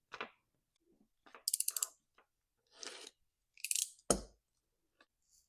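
Small plastic package holding a new fuel solenoid valve being opened and handled: scattered rustles, a quick run of clicks about a second and a half in, and a short thud a little past the middle.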